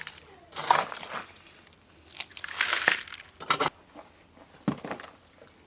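Several short bursts of crinkling and tearing, about four in all, from food or wrapping being handled.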